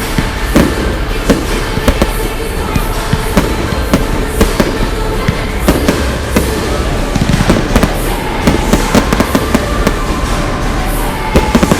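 Fireworks display: a rapid, irregular run of sharp bangs and crackles, one after another with hardly a pause.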